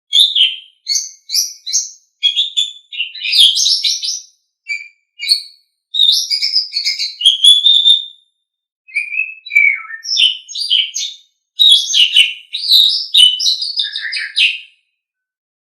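Asian pied starling (jalak suren) singing: rapid runs of chattering, squeaky and whistled notes in phrases a few seconds long, broken by short pauses.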